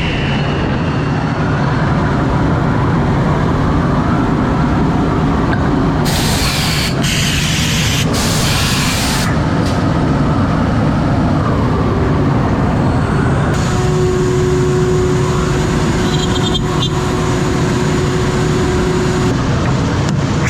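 CNC router milling beech boards: a steady, loud machine noise with a low hum underneath. Bursts of hiss come between about six and nine seconds in, and a steady tone joins for about five seconds in the second half.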